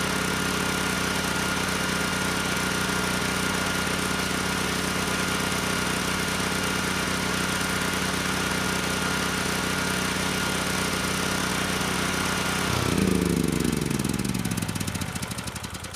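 Sportsman 9000-watt portable generator's engine running at a steady speed with a steady high whine, then shut off about thirteen seconds in and coasting to a stop, its pitch falling away over the last few seconds.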